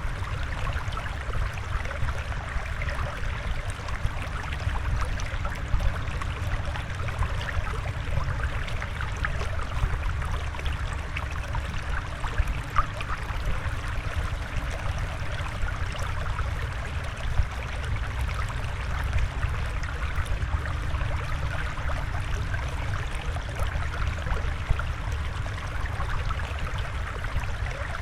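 Water flowing and trickling steadily, a continuous splashy hiss over a low rumble with small bubbling ticks.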